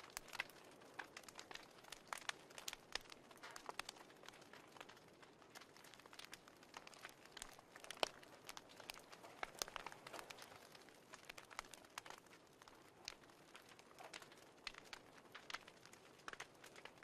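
Faint fireplace crackling: irregular small pops and snaps over a soft hiss, one louder snap about eight seconds in.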